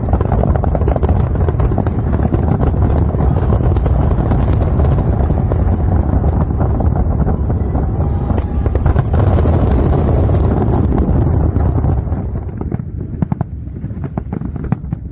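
A fireworks barrage: dense rapid crackling over deep booms. It thins out and quietens about twelve seconds in, leaving scattered cracks.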